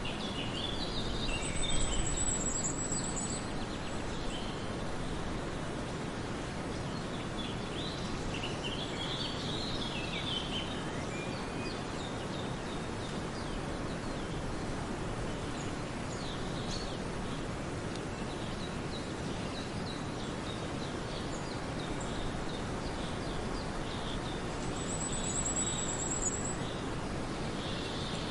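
Birds chirping on and off over a steady background hiss, with a short, very high trill near the start and again near the end.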